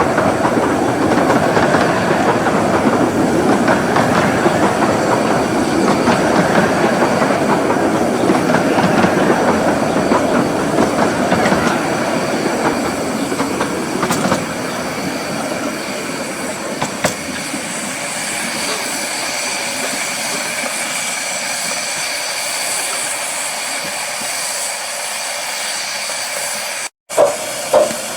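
Miniature 15-inch-gauge Romney, Hythe and Dymchurch Railway train running past, wheels clicking over the rail joints, the sound easing off about halfway through. A steady high hiss remains afterwards.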